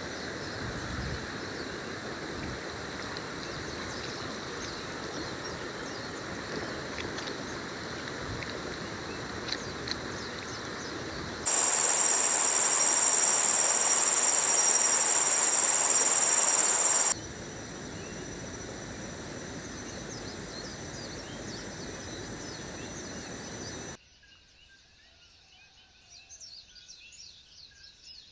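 Jungle ambience: steady outdoor noise, then a loud, high-pitched insect drone for about five seconds in the middle that starts and stops abruptly. Near the end there is a quieter stretch with scattered small chirps.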